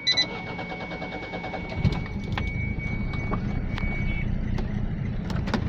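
Car engine cold-started: a brief chime, then the starter cranks rapidly and the engine catches about two seconds in. It settles into a cold idle with irregular sharp ticks, the abnormal noise that the owner places at the cylinder nearest the driver's side.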